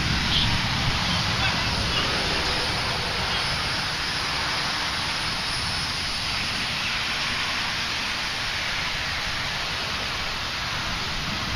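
Steady hiss of rain in a thunderstorm over a low, uneven rumble.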